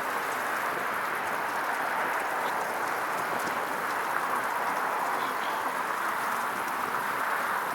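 Steady rushing noise of riding on a recumbent trike: wind and tyre noise at an even speed, with a few faint ticks.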